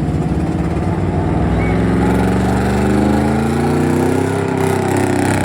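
Truck engine running hard at high revs, holding a steady pitch that wavers a little about halfway through.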